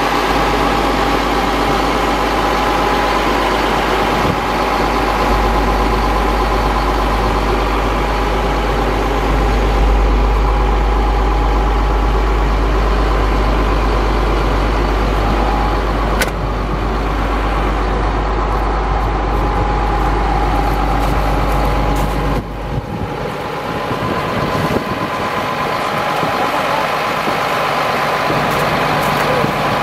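Engine of a 2000 Chevrolet C7500 ladder truck running steadily, with a deep low drone that drops out about two-thirds of the way through while the engine keeps running.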